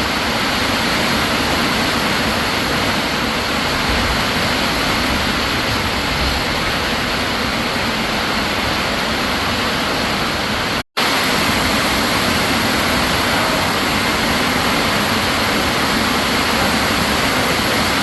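Wind rushing over the microphone, a loud steady hiss with an uneven low rumble, broken by a brief cutout about eleven seconds in.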